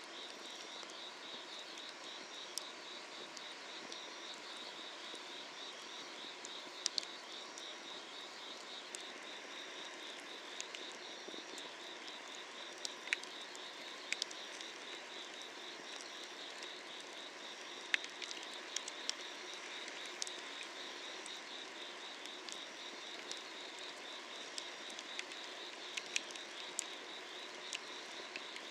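Summer-night grass insects calling steadily: a fast pulsing trill with a slower chirp repeating about once a second. Sharp crackles and pops of burning firewood break in at scattered moments.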